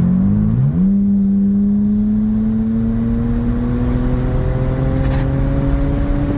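BMW 328i engine and exhaust drone heard from inside the cabin while driving, fitted with a Black Widow Neighbor Hater muffler and the resonator cut out. The pitch climbs quickly a little under a second in, then holds steady and rises slowly, over a low road rumble.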